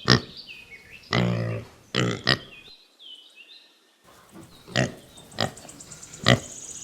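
Domestic pig grunting: a series of short, separate grunts, with one longer, drawn-out grunt about a second in. There is a brief break around three seconds in, then more grunts.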